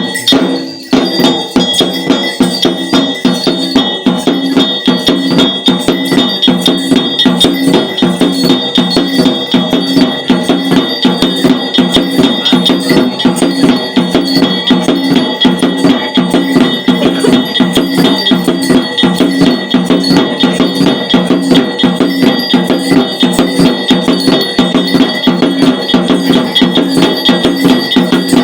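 Ritual percussion: drums beaten in a fast, even rhythm with metal bells ringing continuously over them, without a break.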